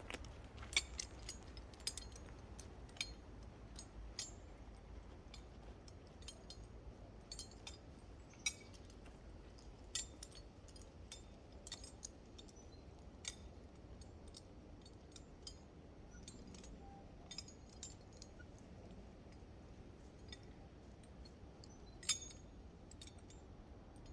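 Scattered light metallic clicks and clinks at irregular intervals over a faint low rumble, with a few louder clicks, the loudest about 22 seconds in.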